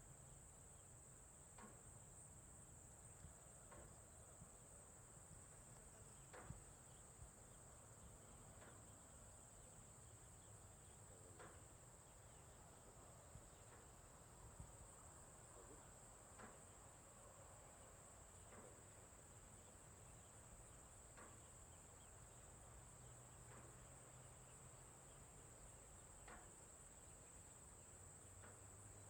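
Faint, steady high-pitched insect chorus of the cricket kind, with faint short chirps or clicks every couple of seconds over a low rumble.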